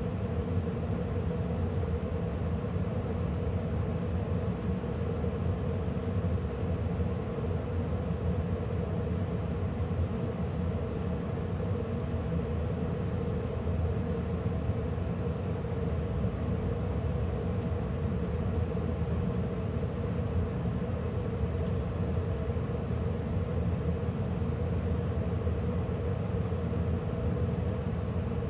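2013 Carrier gas furnace's indoor blower fan running steadily, with a low hum and a steady whir. The burners and draft inducer are already off: this is the blower's fan-off delay, clearing residual heat from the heat exchanger before it stops.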